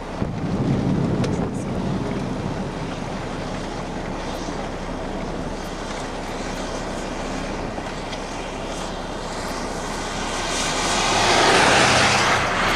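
Steady road and traffic noise, swelling to its loudest near the end as a vehicle goes past.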